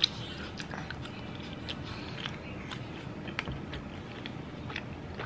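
Mouth sounds of eating spicy noodles and avocado: chewing, with scattered small wet clicks and smacks. One sharp click comes right at the start.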